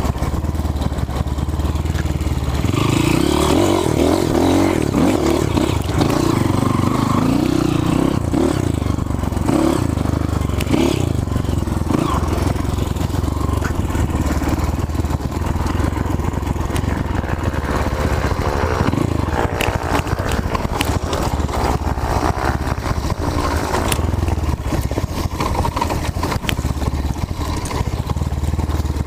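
Off-road motorcycle engine running on a dirt trail, its pitch rising and falling with the throttle, with frequent clicks and knocks over the rough ground.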